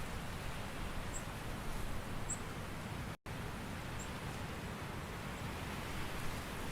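Steady autumn forest ambience, an even rustling hiss, with a few faint, short, high chirps scattered through it. The sound cuts out for an instant about three seconds in.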